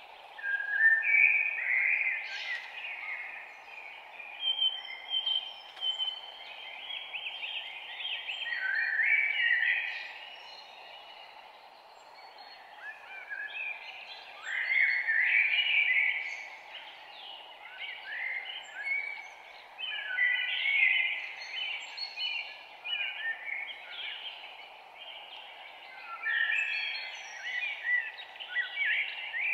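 Morning chorus of several songbirds singing and chirping over one another, over a steady background hiss. The song comes in louder spells, about a second in, around nine seconds, and again around fifteen, twenty and twenty-seven seconds.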